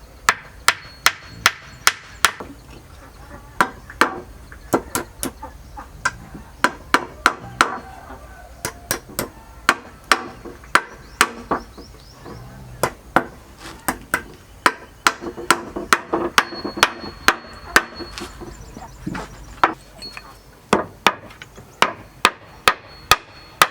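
A hammer striking wood over and over, sharp blows coming at an uneven pace of roughly one to two a second, as in nailing.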